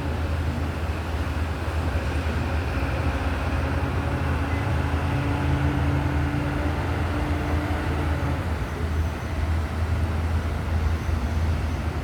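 Steady low engine rumble and hum under a constant noisy hiss, with a couple of faint steady tones that stop about eight seconds in.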